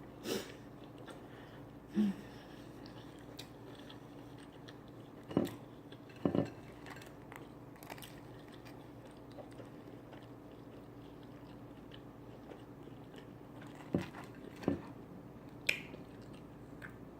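Close-up chewing and biting of a corned beef sandwich on toasted ciabatta bread, with a handful of short, sharper mouth sounds and bites standing out over quiet chewing.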